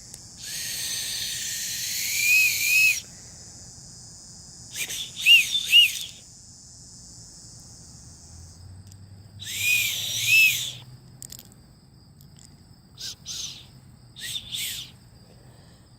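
Bird call whistle blown in a series of breathy, chirping calls: one long call, then short double and triple chirps, then a few fainter ones. Faint steady insect trilling runs underneath.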